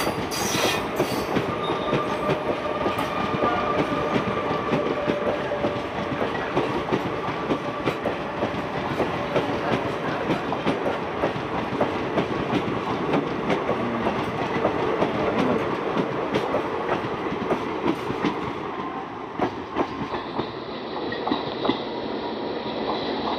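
Passenger coaches of an express train rolling past at speed, wheels clattering over rail joints with a steady rumble. The sound eases a little near the end as the last coach moves away.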